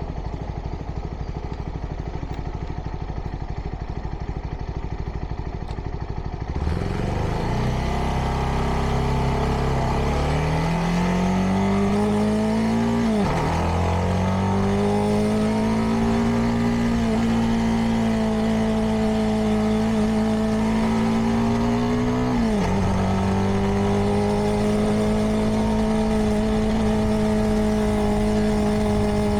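CFMoto 300NK motorcycle's single-cylinder engine through its stock exhaust, heard from the rider's position. It throbs low and evenly at first. About six seconds in it pulls away, its pitch climbing and then dropping sharply at two upshifts, and settles into a steady cruise.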